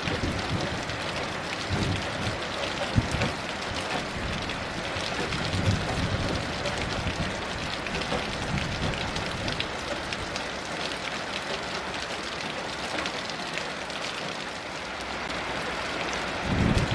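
Heavy rain falling steadily in a dense, even patter, with a few low rumbles of distant thunder.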